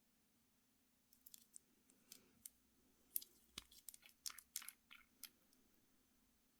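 Small product packaging being handled and opened by hand: a quick run of light, sharp clicks and crackles, starting about a second in and lasting about four seconds.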